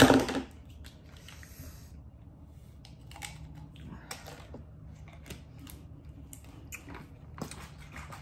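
Soft eating mouth sounds, chewing and lip smacks with scattered small clicks, after one loud brief noise right at the start.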